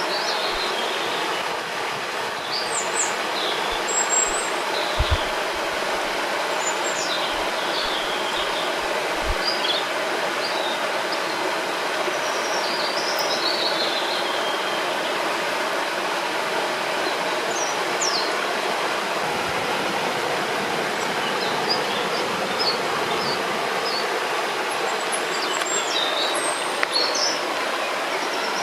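Steady rush of a river or waterfall, with songbirds chirping and trilling at intervals above it, and a few soft low thumps about five seconds in.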